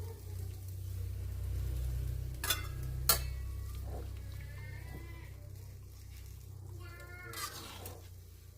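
Two sharp clinks over a low steady hum, then a few short wavering animal calls.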